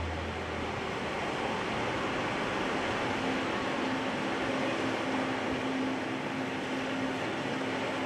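Sea surf washing in at the shoreline: a steady rushing of breaking waves, with a faint steady low tone underneath.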